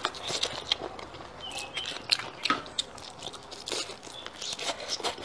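Biting and chewing on a spicy braised chicken foot: a string of short, irregular clicks and crunches.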